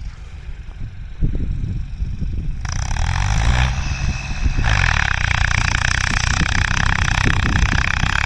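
Farmtrac 60 PowerMax tractor's turbocharged diesel engine running hard, its pitch rising and then falling about three to four seconds in. A loud rushing hiss comes in near three seconds and again from about five seconds on.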